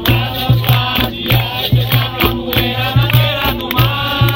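Capoeira roda music: singing over a steady rhythm of low hand-drum strokes with rattling percussion.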